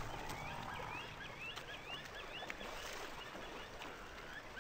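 Birds calling: a quick run of short chirps that bend up and down in pitch, fading out a little past the middle.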